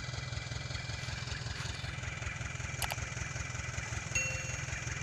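Dump truck's diesel engine idling, a steady low even throb.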